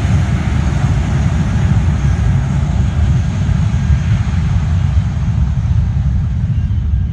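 Airliner engine noise from a passing plane: a loud, steady roar with a deep rumble underneath, its hiss slowly thinning toward the end as the plane draws away.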